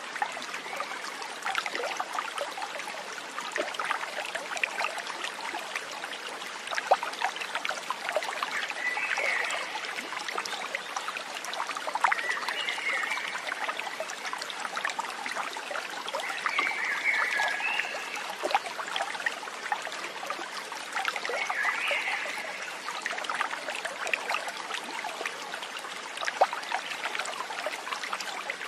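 Shallow stream trickling and babbling over stones, with many small splashes. A short warbling animal call sounds four times, a few seconds apart.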